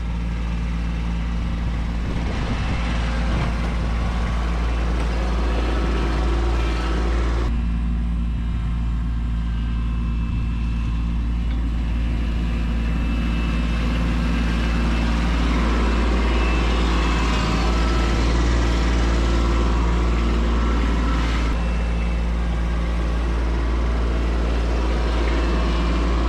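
Kubota B2601 compact tractor's diesel engine running steadily while clearing snow. The higher-pitched noise above its drone cuts out abruptly about seven seconds in and builds back a few seconds later.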